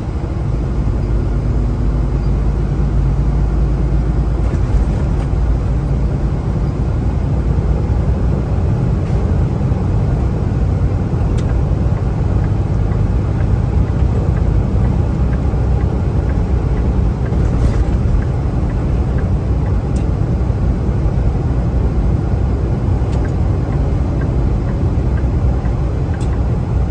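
Semi truck driving at road speed: steady low engine and road rumble heard from inside the cab.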